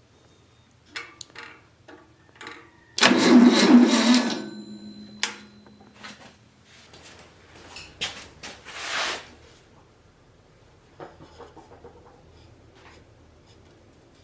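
Air-cooled VW engine on a start stand turning over in a single loud burst of about a second, about three seconds in, then fading out. Scattered clicks and knocks come before and after it.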